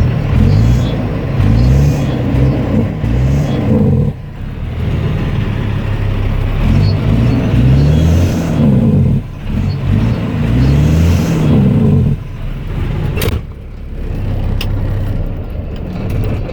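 Kenworth dump truck's 550-horsepower Caterpillar diesel engine revved again and again, its pitch rising and falling in a run of short blips with brief drops back to idle. After about twelve seconds it settles to a quieter idle, with a sharp click a second later.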